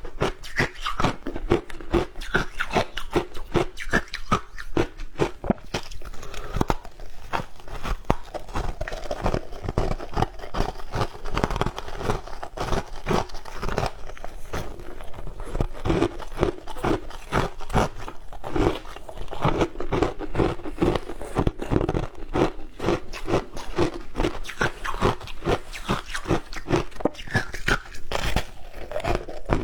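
A person biting and chewing frozen shaved ice, a continuous run of rapid, irregular crunches several times a second.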